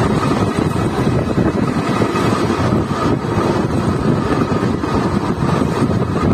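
ICF passenger coach running at speed: a loud, steady rumble and rattle of the wheels on the rails, with rushing wind.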